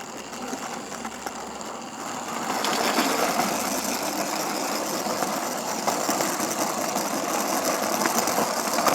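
Model Class 33 locomotive's electric motor and wheels running along the track close up, a steady buzzing rattle that grows louder about two and a half seconds in.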